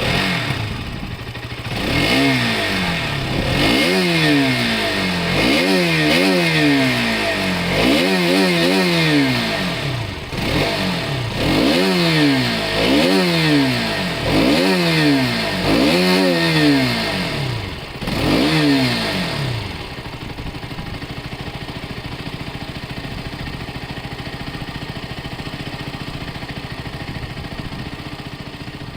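Motorcycle engine, just started, revved repeatedly in quick blips, rising and falling about every two seconds, then settling into a steady idle for roughly the last nine seconds.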